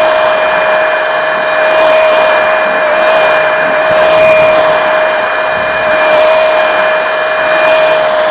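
Kubota skid steer running steadily at working speed, a constant high whine over a rushing noise, its pitch dipping only slightly now and then.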